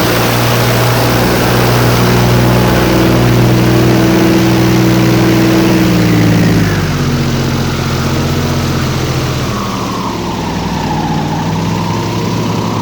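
Airboat engine and propeller running steadily, then dropping in pitch about six and a half seconds in as the throttle is eased back.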